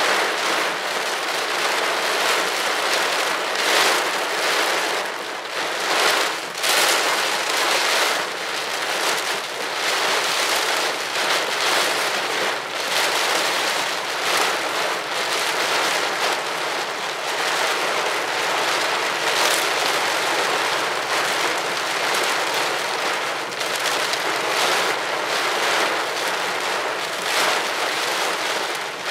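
Heavy rain beating on a car's roof and windshield, heard from inside the car. It is loud and steady, surging heavier every few seconds.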